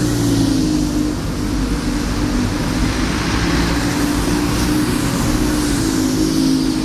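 A large vehicle's engine running steadily, with a droning tone that wavers slightly in pitch.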